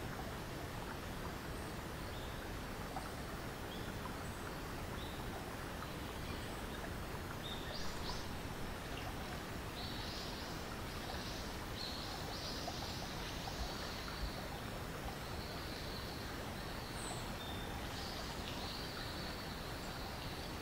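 Steady outdoor background hiss with birds calling in short, high-pitched notes. The calls start about a third of the way in and come repeatedly after that.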